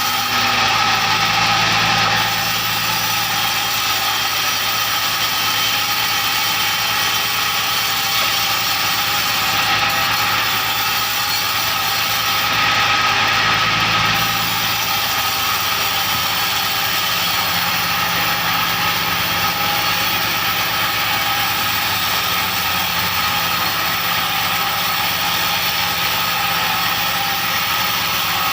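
Sawmill machinery running steadily, with an engine-like hum and a held whine and no clear cuts or pauses.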